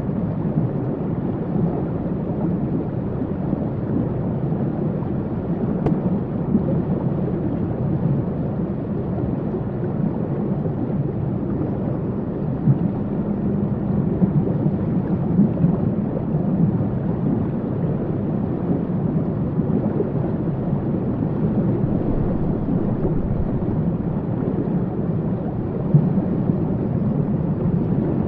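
Waterfall: a steady, low rush of falling water.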